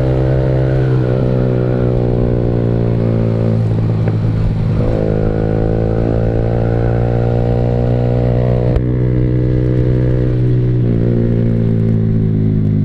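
Yamaha R15 V3's single-cylinder engine running through a Purbalingga-made SC Project aftermarket exhaust while riding at a steady pace. The exhaust note holds fairly even, with a brief dip about four seconds in and small changes in pitch as the throttle shifts.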